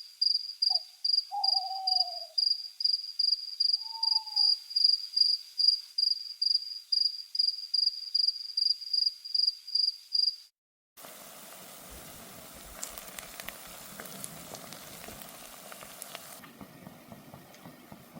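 Cricket chirping, one high note repeated about twice a second, with a few short falling lower calls in the first few seconds; it stops abruptly about ten seconds in. A steady hiss with faint scattered crackles follows.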